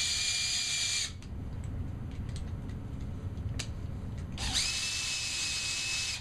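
Power drill fitted with a screwdriver bit, running in two bursts to drive a screw: about a second at the start and again for about two seconds near the end, its motor whine rising as it spins up. A few small clicks fall between the runs.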